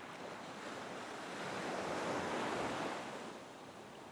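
Ocean waves washing ashore, one wave swelling to its loudest about halfway through and then receding.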